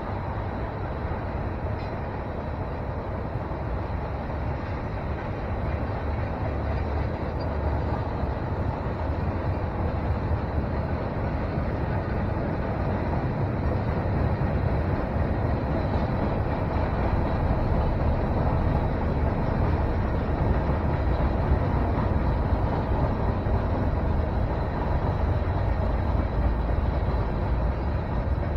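Freight train rolling past, a steady low rumble of its cars on the rails that grows somewhat louder about halfway through.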